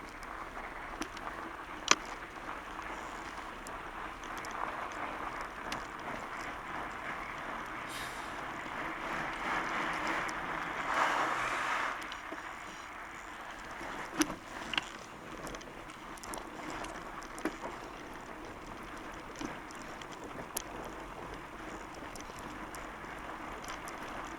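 Fat bike riding over the course: steady tyre rolling noise with scattered clicks and knocks, swelling louder around the middle.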